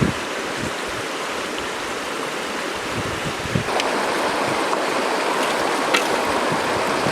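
River water flowing, a steady rushing that steps up in level about halfway through, with a knock at the very start and a few faint clicks over it.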